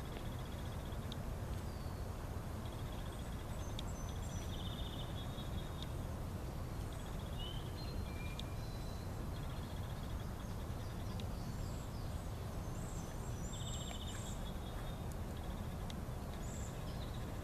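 Birds chirping and giving short buzzy trills here and there over a steady low background rumble.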